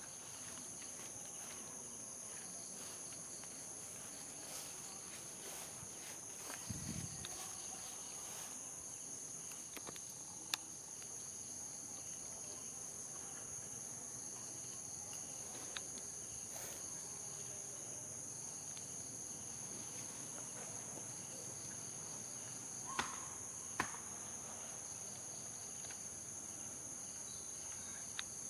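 Steady, high-pitched drone of insects, likely crickets or cicadas. A few sharp clicks or taps stand out now and then.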